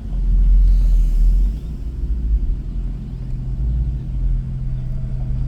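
A car driving: low engine and road rumble, loudest for the first second or so, then settling into a steadier low engine drone.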